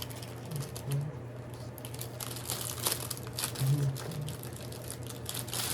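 Packaging being handled during an unboxing, making many short, irregular crackles over a low steady hum.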